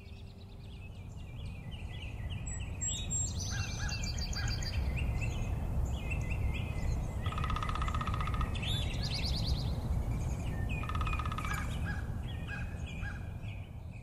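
Several small songbirds chirping and singing in short, rapid trilled phrases over a steady low rumble.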